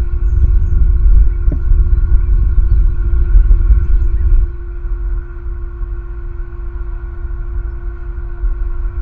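Wind buffeting a nest-cam microphone, a heavy low rumble that drops off sharply about four and a half seconds in, over a steady faint hum.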